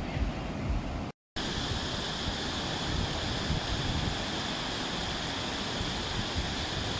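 Steady wash of sea surf breaking on the beach, with wind rumbling on the microphone. The sound cuts out completely for a moment about a second in.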